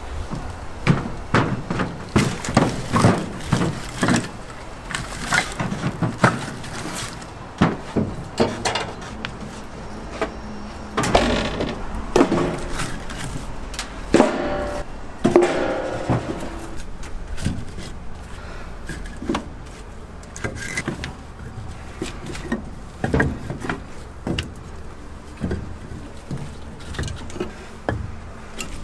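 Irregular knocks and clatter of things being handled and set down, one after another, with a brief pitched sound in the middle.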